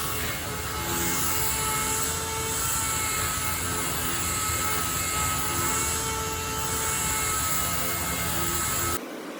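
Double-action sander running steadily on 600-grit paper, sanding the primer surfacer on a car bonnet: a steady whine over a high hiss. It cuts off abruptly near the end.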